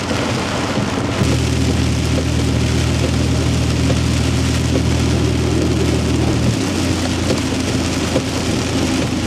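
Heavy rain on a truck driving on a wet road, with the truck's engine running as a steady low hum that comes in about a second in and steps down in pitch about six and a half seconds in.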